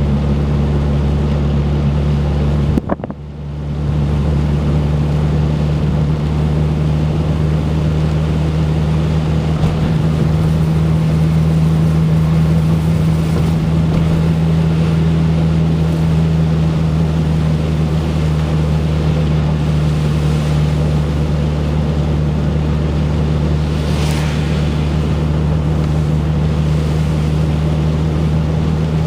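Turbocharged Ford Focus four-cylinder engine running at a steady speed, with a brief dropout about three seconds in. The owner reports a rough idle and a miss under boost even with a new coil pack, and suspects the plug wires or the cylinder 2 fuel injector.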